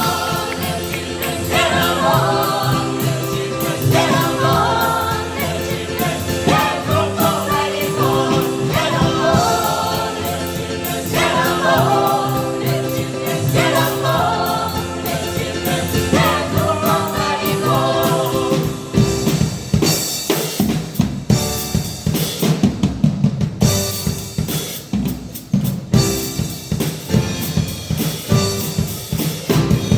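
A gospel choir singing with a band and drum kit. About two-thirds of the way through, the voices drop out and the drum kit plays on alone with a steady beat.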